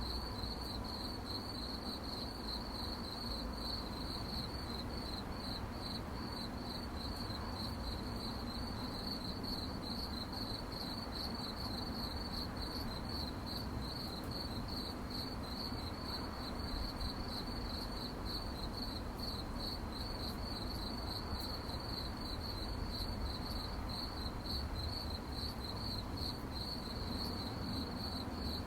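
Crickets chirping at night, a steady, evenly pulsing high-pitched trill, over a faint constant low rumble.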